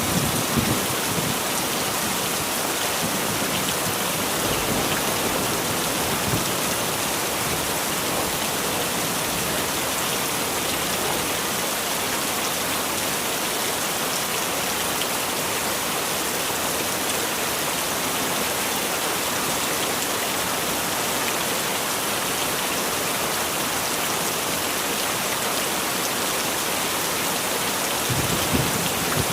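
Heavy rain falling steadily, a dense even hiss of drops. Brief low rumbles come right at the start and again near the end.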